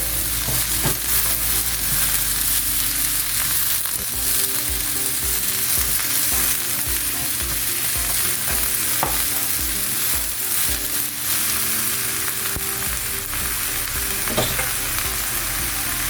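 Vegetables sizzling as they are stir-fried in a wok. A few brief knocks and scrapes come from the stirring utensil against the pan.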